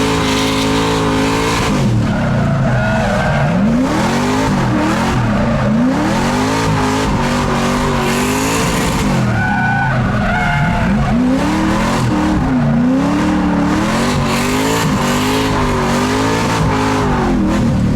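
A drift car's engine revving up and down over and over, the pitch rising and falling every second or two, with tyres squealing and skidding at times.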